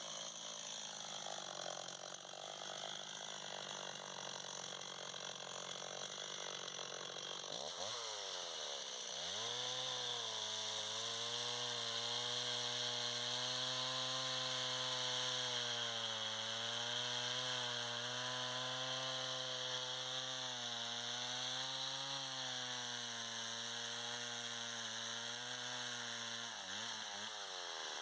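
Chainsaw engine running: its pitch swoops up sharply about eight seconds in, then holds at high speed with small dips and wavers, and falls away again near the end.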